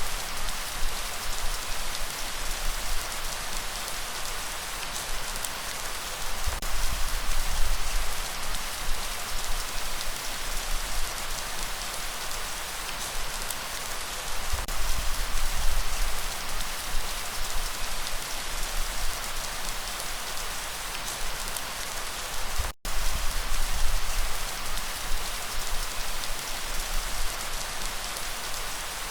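Steady rain falling on a surface: a dense, even patter of drops over a low rumble. A split-second dropout cuts the sound about three-quarters of the way through.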